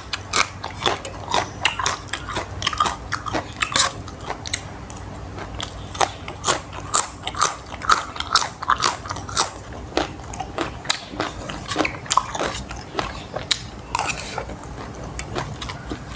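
A person chewing and biting food close to the microphone, with crisp crunches coming in quick, irregular succession, a few each second.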